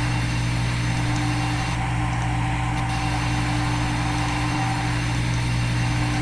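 CNC milling simulator's machining sound: a steady, even machine hum of the spindle and cutter with a few fixed tones.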